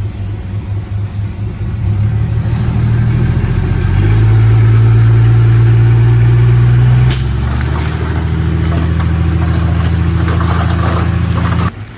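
Heavy diesel engine running and working up, louder about two seconds in and again at four seconds, changing pitch about seven seconds in, then cutting off abruptly near the end.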